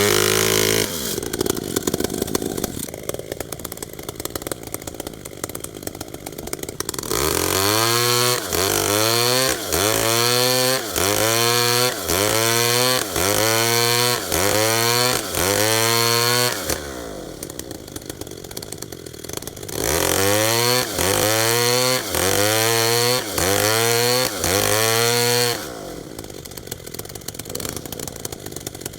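Two-stroke chainsaw revved in short repeated bursts, about one a second, its pitch rising with each burst and dropping back. Lower, steadier running comes between the runs of bursts and again near the end.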